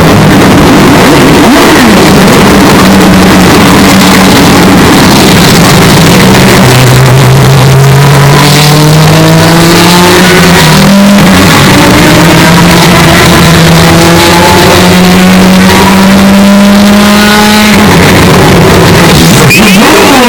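Hyundai Elantra N's turbocharged four-cylinder engine accelerating, its pitch climbing steadily with a short step about halfway through, then dropping off near the end. The audio is boosted to the point of distortion.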